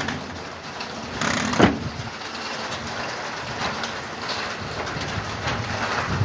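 Steady rain falling, with a short louder thump about a second and a half in.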